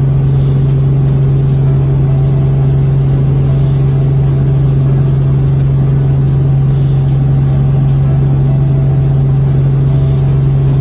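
Helicopter running with a loud, steady drone: one strong constant hum with fainter overtones over a wash of rotor and engine noise, unchanging throughout.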